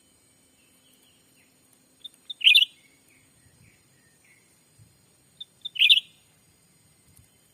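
Cucak ranting lure call, repeated at an even pace of about one every three and a half seconds: two short pips and then a loud burst of notes, heard twice. Fainter, softer chirps fall between the calls, over a thin steady high whine.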